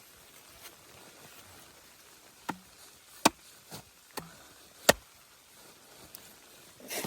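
Five sharp knocks at uneven intervals, like blows on wood, the second and fifth loudest, then a short scuffing burst near the end.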